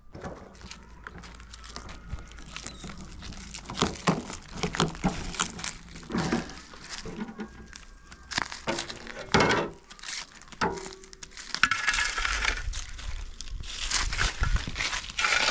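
Dry material crunching and crackling as it is handled, with scattered irregular knocks; a denser stretch of crackling comes late on.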